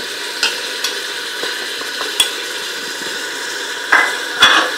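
Mutton, onions and spices sizzling in oil in a pressure cooker pot, with a few light clicks and louder stirring sounds from a wooden spoon near the end.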